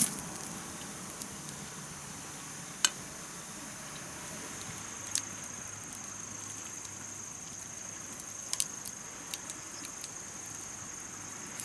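Insects calling outdoors: a steady high trill that grows stronger about five seconds in. A handful of sharp clicks and taps stand out over it, the loudest nearly three seconds in and a pair near the end.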